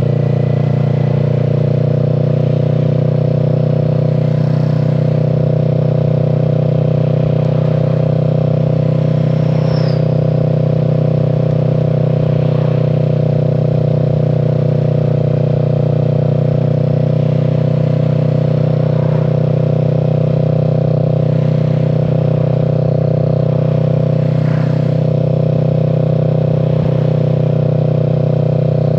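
Kawasaki Z650's 649 cc parallel-twin engine running at a steady, unchanging pitch.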